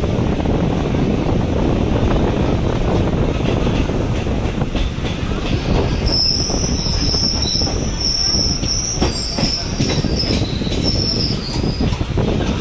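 Suburban EMU electric local train running on the track, with a steady rumble and wheel clatter. About halfway through, the wheels give a high, steady squeal that lasts about five seconds.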